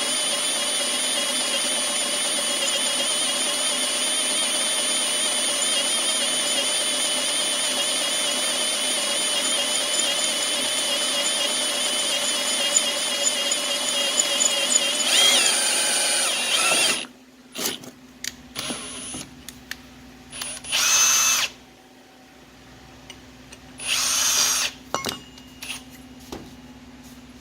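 Electric drill boring into metal with a new drill bit, running steadily with a wavering high whine for about seventeen seconds, then stopping suddenly. Two short loud bursts follow a few seconds later.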